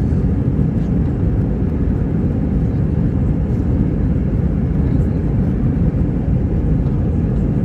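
Airbus A321-231's IAE V2500 turbofan engines at takeoff power, heard inside the cabin as a steady low rumble and roar.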